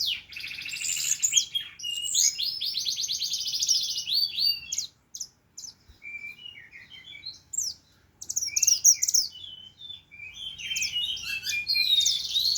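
Oriental magpie-robin singing loud, varied whistled phrases, many built from fast runs of repeated notes. It goes quieter for a few seconds about halfway through, then sings loudly again.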